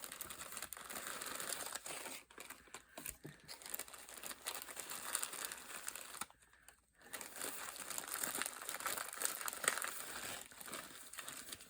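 Packaging rustling and crinkling as a stash of craft embellishments is rummaged through by hand, with a brief pause a little past halfway.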